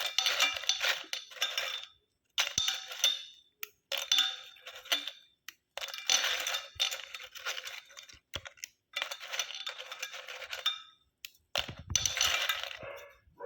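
Crisp Parle-G biscuits snapped in half and dropped into a steel mixer-grinder jar, the pieces clinking against the metal. This comes in about six separate bursts with short gaps between them.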